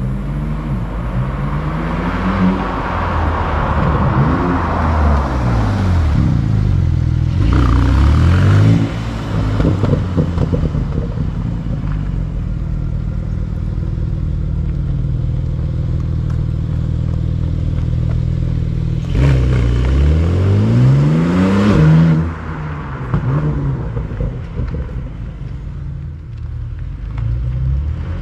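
Porsche 911 (992) Turbo S twin-turbo flat-six running through a Quicksilver titanium silencer and stainless X-pipe exhaust, revved again and again. The revs rise and fall, with two long climbs to high revs about 7 and 19 seconds in that are the loudest moments, and the engine settles back to a lower rumble between them and again near the end.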